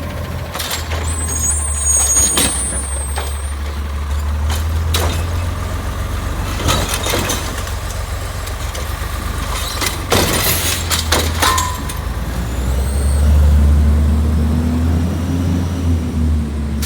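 Recycling truck's engine running with a steady low rumble, with a string of clanks and knocks and a short air hiss about two seconds in. The engine speeds up briefly near the end.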